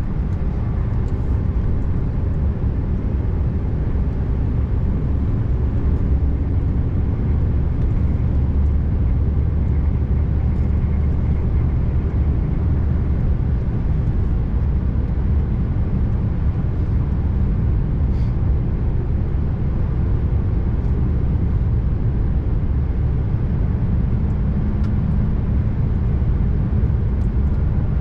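Scania R590's V8 diesel engine running steadily as the truck drives, with tyre and road noise: a continuous low drone with no sudden changes.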